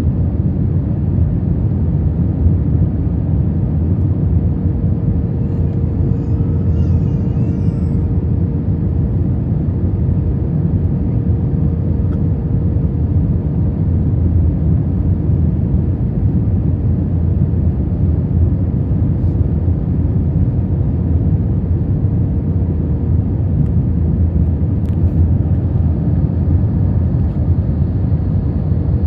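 Steady cabin noise of an Airbus A321 on final approach with its flaps lowered: a deep rumble of engines and airflow and a steady hum.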